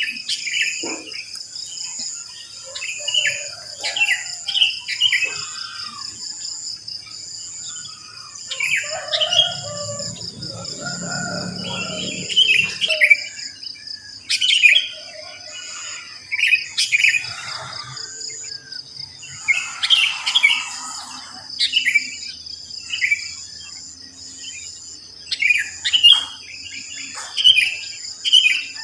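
Wild sooty-headed bulbuls chirping and calling in short, repeated bubbly phrases, over a steady high-pitched insect trill. A brief low rumble passes about ten seconds in.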